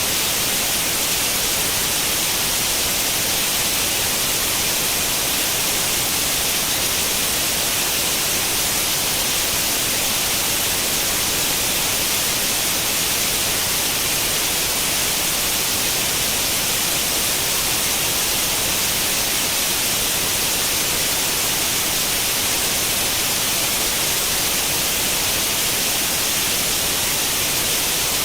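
Steady white noise like the static of an untuned tube television: an even hiss, heavier in the high end, that holds level throughout.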